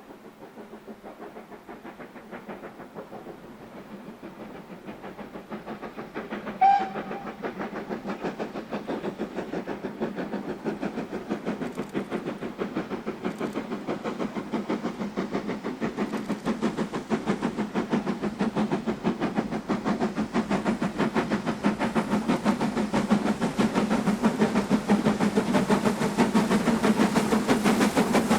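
Steam locomotive working a train and drawing nearer, its rapid exhaust beats growing steadily louder, with one short whistle blast about seven seconds in.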